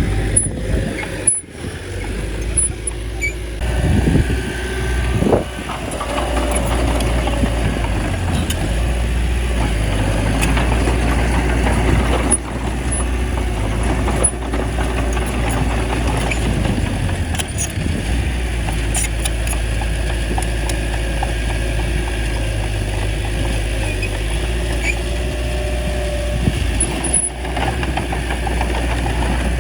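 Bulldozer's diesel engine running steadily under load, with scattered clanks and a few brief dropouts.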